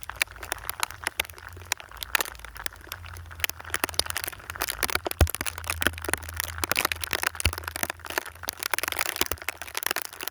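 Snow crunching and crackling close to the phone's microphone: dense, irregular sharp crackles over a low, steady wind rumble.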